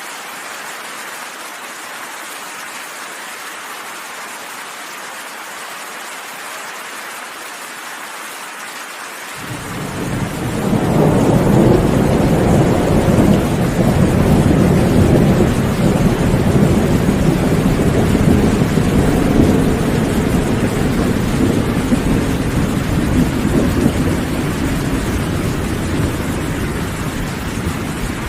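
Steady rainfall, then about a third of the way in a loud, deep thunder rumble rolls in, builds quickly, and rumbles on, easing slowly toward the end.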